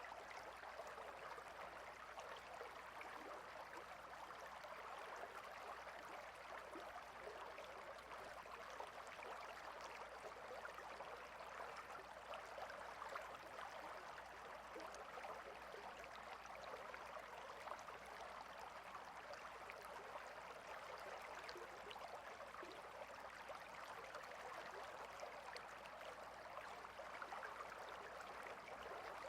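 Water stream flowing steadily, a continuous, even rush of water with a fine trickling texture.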